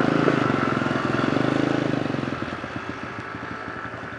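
A motorcycle engine running, loud at first and fading away over the second half.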